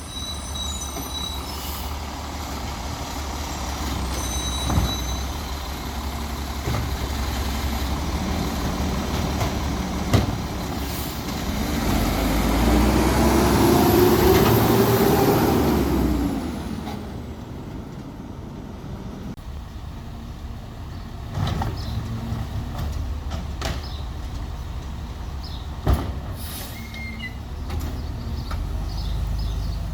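Peterbilt 320 garbage truck with a Labrie Expert 2000 side-loader body running. The engine revs up and back down over a few seconds in the middle, and there are a few sharp knocks.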